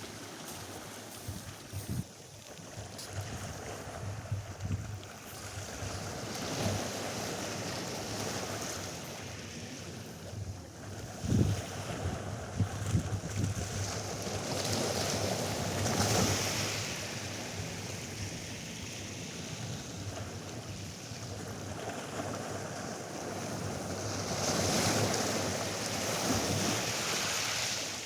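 Atlantic surf washing onto a sandy beach, swelling and falling back about every ten seconds, with wind buffeting the microphone and a few short gusts.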